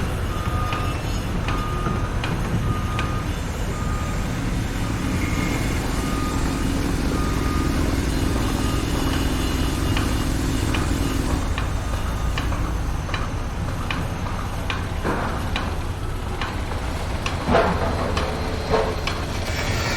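A heavy vehicle's reversing alarm beeps at an even rhythm over a steady diesel engine rumble on a construction site, with the beeping stopping about halfway through. A few sharp knocks follow near the end.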